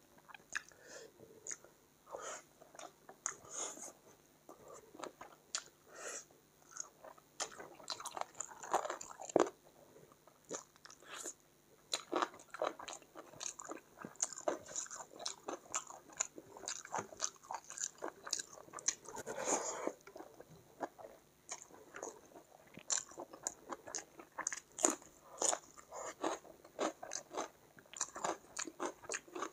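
Close-miked eating sounds of chicken curry and rice: wet chewing and smacking with irregular crunchy bites, as a steady stream of small clicks and crackles.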